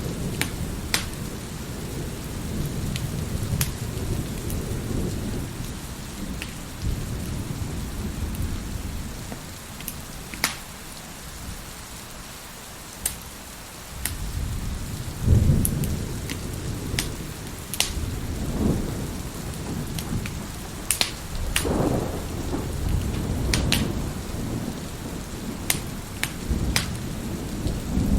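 Wood fire crackling with scattered sharp pops over steady rain and rolling thunder. The thunder rumbles at the start, fades for a few seconds near the middle, then swells again about halfway through and rolls on in waves.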